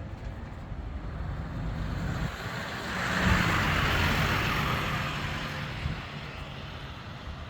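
A vehicle passing close by, swelling to its loudest about three seconds in and then fading, over a steady low hum.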